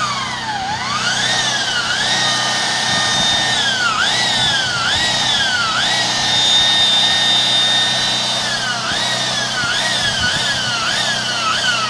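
Drain-cleaning machine's electric motor whining as it drives a cutter through roots in a sewer pipe, its pitch repeatedly dropping under load and climbing back. The whine holds steady for a couple of seconds near the middle, then dips quickly several times near the end.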